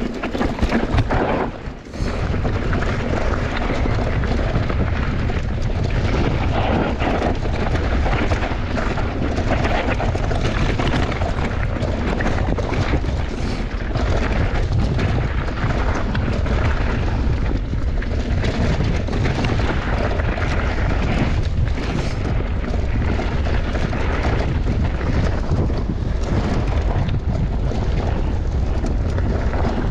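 Wind buffeting the rider's camera microphone with a continuous low rumble, together with the rattle of a mountain bike rolling down a bike-park trail. After a brief dip in the first two seconds it settles into a steady, unbroken noise.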